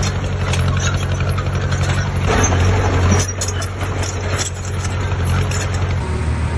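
Heavy diesel engine of earthmoving machinery running steadily with a low drone, with a louder rush of noise about two seconds in. The sound changes abruptly near the end.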